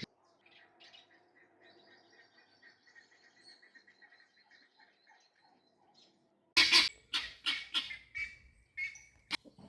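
Bird calling: a faint, steady run of short repeated chirps, then about six and a half seconds in a much louder series of harsh squawks.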